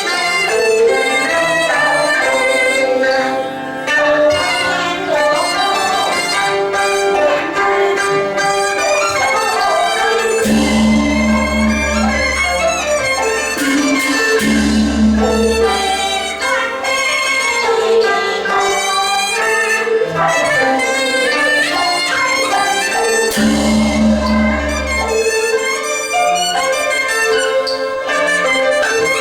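Teochew opera ensemble playing, a melody led by bowed Chinese fiddles, with deep low notes entering three times for a couple of seconds each.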